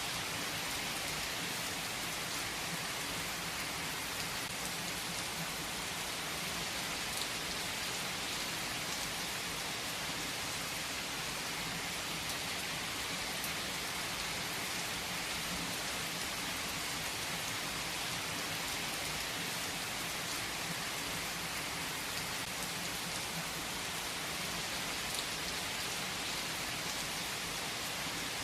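Steady rain falling on a surface, an even hiss with a few sharper drop ticks.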